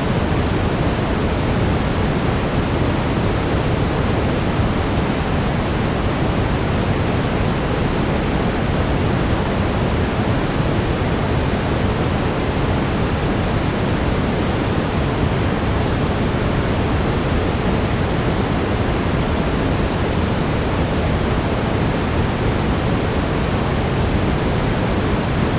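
Steady brown noise: an even, deep rushing hiss, heaviest in the low range, that never changes.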